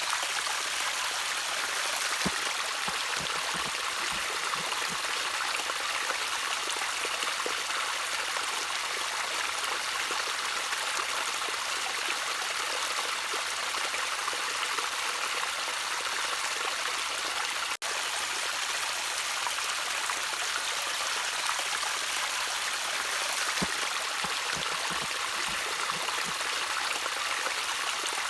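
Gentle trickling water: a steady hiss of running water with scattered small plinks and drips. It cuts out for a split second about eighteen seconds in.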